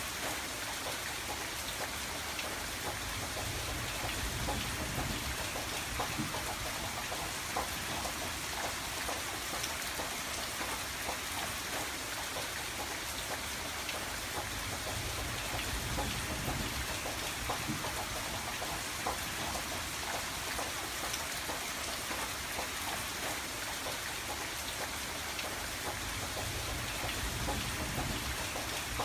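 Steady rain on window glass: a constant wash of rain with many individual drops ticking. A low rumble swells and fades a few times underneath.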